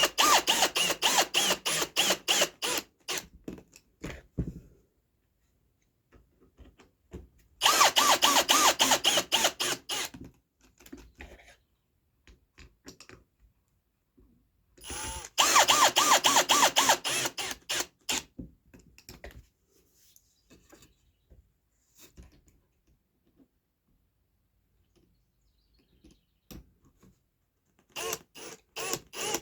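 Drill driving pocket-hole screws into fence-picket boards: four runs of about two and a half seconds each, the motor spinning with a fast rattle, with short pauses between screws.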